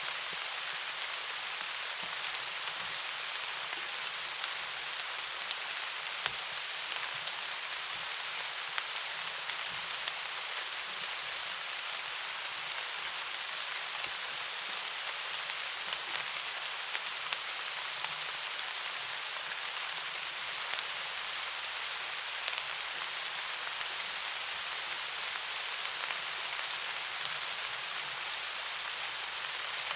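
Steady rain falling, an even hiss with scattered small taps of drops hitting a surface.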